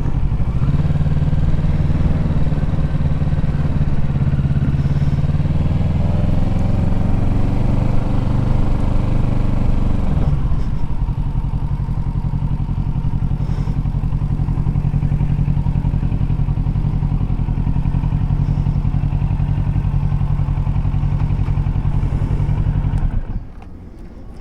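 Kawasaki Ninja 650's parallel-twin engine running steadily at low revs. It rises a little in pitch, then drops back about ten seconds in. The sound cuts away sharply about a second before the end.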